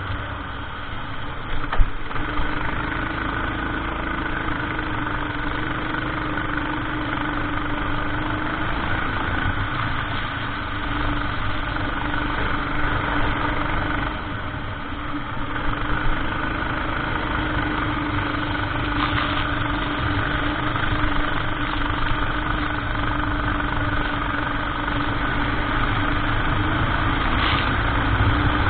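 Racing kart engine running steadily on track, its note dipping briefly a few times, with a sharp knock about two seconds in.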